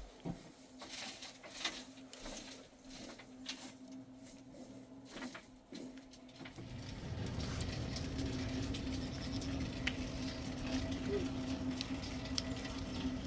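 Rain pattering: scattered drops and taps at first, then a steadier, louder rush of rain from about halfway through.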